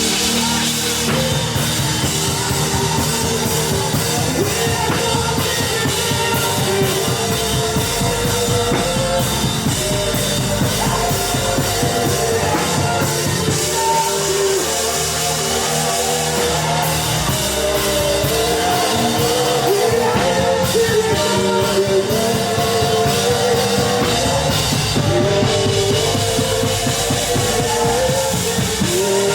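Live worship band playing with a full drum kit, with singing over it.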